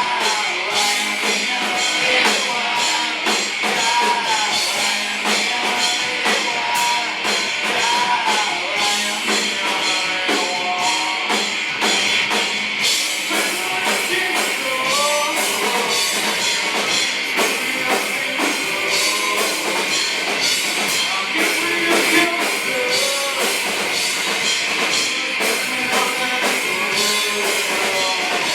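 Live rock band playing a cover song: a singer over electric guitars and a drum kit with steady cymbal hits.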